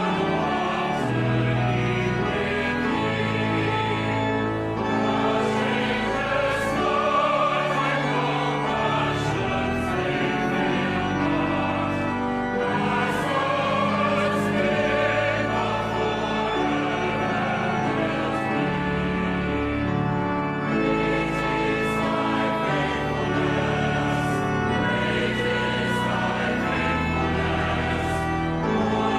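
Choir singing a sacred piece with sustained chords and a moving bass line.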